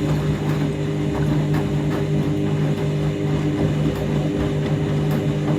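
Overloaded washing machine running, its motor giving a steady hum with faint ticks and rattles over it.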